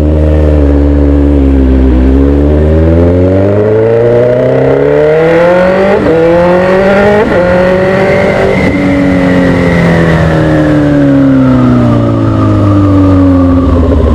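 Suzuki GSX-S 1000 inline-four engine on the move, its note rising steadily for about eight seconds and then falling away, with two brief ticks partway through. The bike is still misfiring on this test ride.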